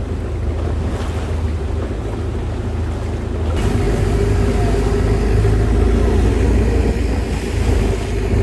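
Longtail boat engine running steadily, with wind and water noise. It grows louder about halfway through.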